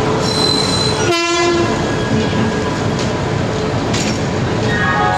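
Passenger train running along the station platform, with a steady rumble of wheels and carriages and some clicks. About a second in there is a short horn blast.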